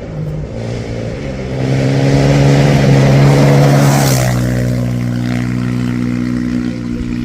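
Rally-raid car engine heard from inside the car, pulling harder and louder about a second and a half in. About four seconds in the pitch shifts, as at a gear change, and it then runs steadily under load.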